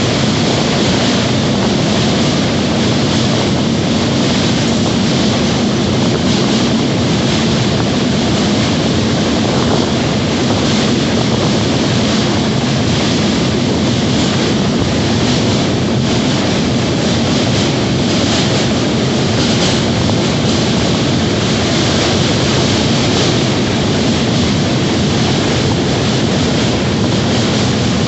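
Train running steadily along the rails: a loud, continuous rumble and rush with no break.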